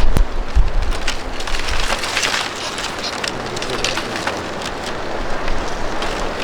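Blizzard wind buffeting the microphone, with heavy rumbling in the first couple of seconds, then a run of sharp crackling taps over a steady hiss.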